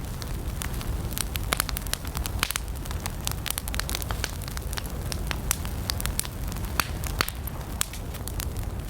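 Wood campfire burning with dense, irregular crackles and pops over a steady low rumble of the flames.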